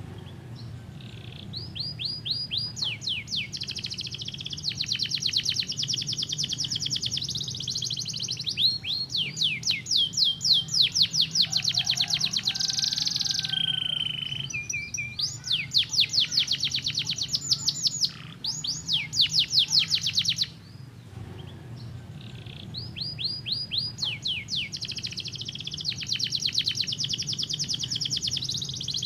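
Canary singing in long, fast trills of rapidly repeated falling notes, broken by short changes of phrase and one pause of a few seconds about two-thirds of the way through. A faint steady low hum runs underneath.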